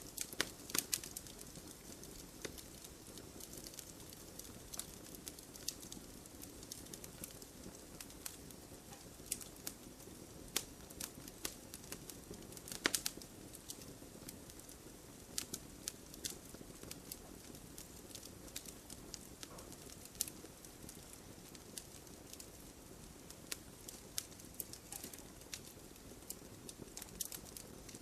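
Wood campfire burning: a steady low rush with irregular crackles and pops. The pops come in clusters, and the sharpest one is about halfway through.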